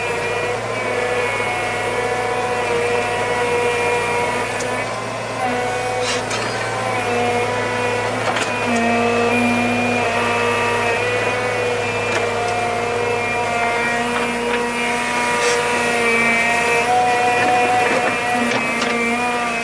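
A motor-driven machine running continuously, its whine shifting slightly in pitch every few seconds over a steady low hum.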